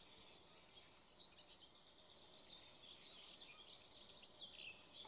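Faint birdsong: small birds chirping and twittering in short, high calls over a near-silent background.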